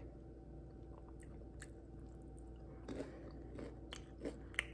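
Faint close-up chewing of fried chicken: soft wet mouth clicks and smacks, with a couple of sharper clicks near the end.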